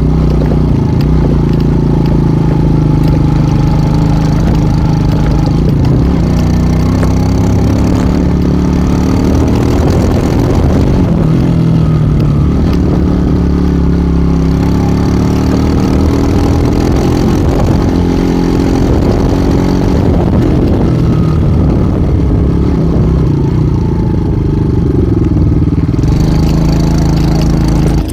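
Tomos ATX motorcycle engine running while being ridden, its note rising and falling again and again as the throttle is opened and closed.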